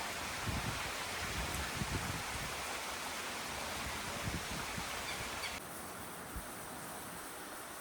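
Steady rain falling, an even hiss. About five and a half seconds in, the high part of the hiss drops away suddenly and the rain sounds softer. Occasional low thumps come through in the first few seconds.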